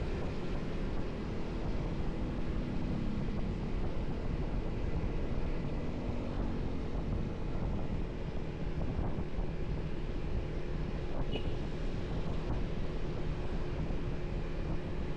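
Motorcycle riding along the road: steady engine hum mixed with wind noise on the microphone.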